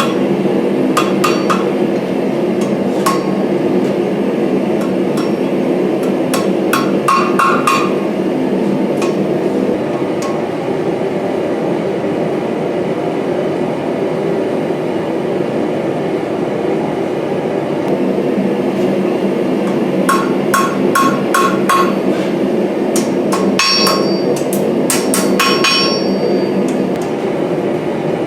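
Hand hammer striking hot mild steel on an anvil, forging a scroll end: quick runs of ringing blows, with a pause of about ten seconds in the middle. A steady low rushing noise runs underneath.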